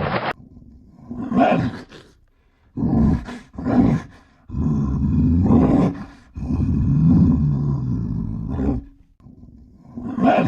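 A large animal's deep roaring calls: three short ones, then two long ones of about two seconds each, and another starting near the end.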